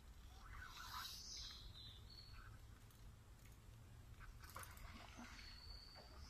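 Quiet riverbank ambience with faint bird calls: short high whistles about two seconds in and again near the end. A soft brief rush about a second in.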